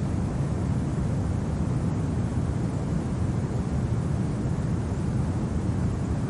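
Steady low wind rumble of a winter snowstorm ambience, even and unbroken, with no crackles or other distinct sounds.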